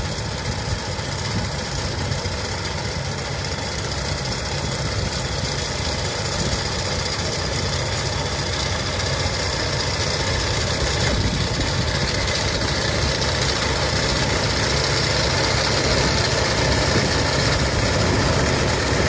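Tractor engine running steadily as it works a hay baler, with machinery noise over the engine hum, gradually growing louder.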